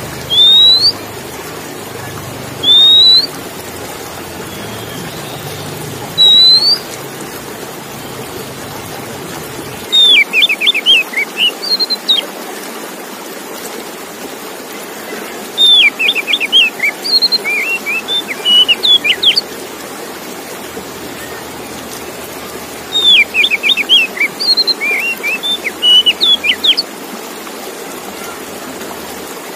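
Male oriental magpie-robin (kacer) singing: three single rising whistles a few seconds apart, then three bursts of quick, varied chattering notes. A steady hiss lies under the song.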